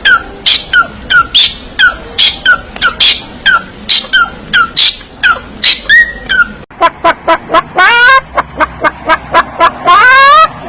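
Parrot calls: short, sharp, repeated calls about two a second, then after a break, quavering trilled calls ending in one long warbling call.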